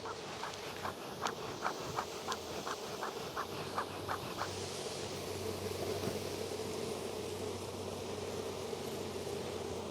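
Mass of honey bees buzzing around an opened, heavily populated hive: a steady hum. Over the first four seconds or so runs a series of quick light ticks, about three a second.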